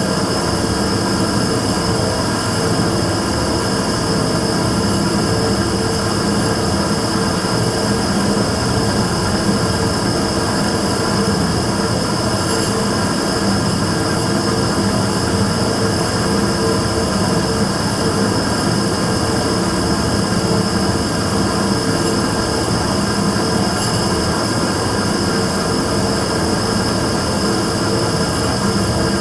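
Immersion tube burner running: a continuous, steady rushing sound with constant hum tones, low and high, that does not change. The owner records it as an abnormal noise from the burner.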